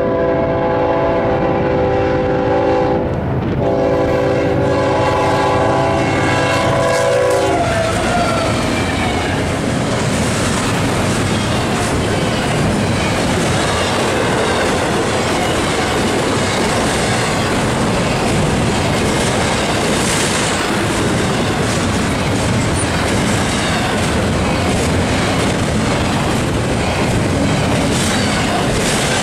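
Freight train locomotive horn sounding two blasts for the crossing. The second blast is held for about four seconds and drops slightly in pitch as the lead units pass. Then comes the steady clatter of an intermodal train's double-stack well cars rolling over the rails.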